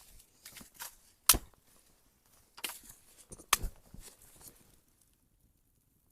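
Dry sticks being snapped for firewood: two sharp cracks, about a second in and near the middle, among lighter crackling and rustling of wood.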